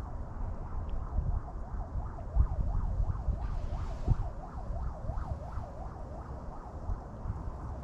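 Wind buffeting the microphone in uneven gusts. Through the middle a faint warbling whistle rises and falls about twice a second.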